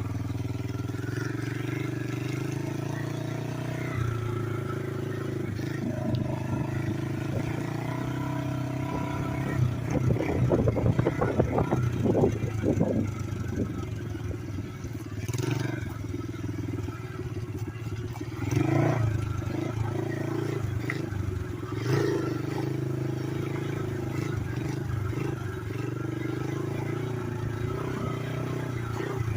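Small single-cylinder pit bike engine running steadily on a home-built three-wheeler. About ten seconds in it revs up louder and rougher for a few seconds, and it surges briefly twice more later.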